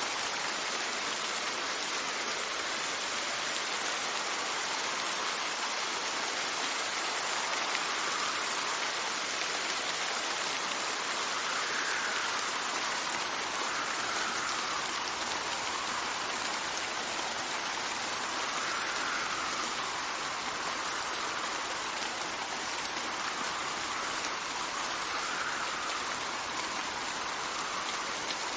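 Steady rain, an even hiss with no breaks, with a faint wind whistle that rises and falls every two to three seconds.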